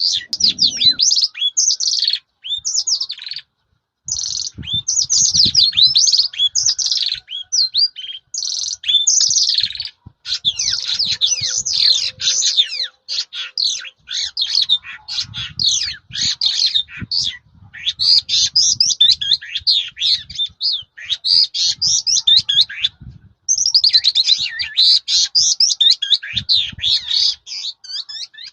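Caged lark singing a long, varied song of rapid chirps, sweeping notes and trills, pausing briefly about four seconds in and again near the end, with faint low thumps underneath.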